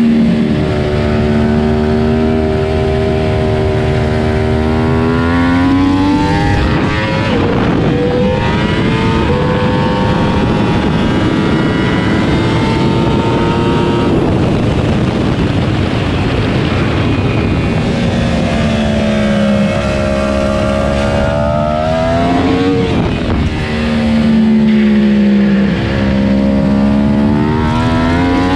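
Yamaha YZF-R1 crossplane inline-four racing engine at full track pace. The revs climb steadily and break at each gear change. In the middle of the stretch a rush of wind at speed masks the engine tone.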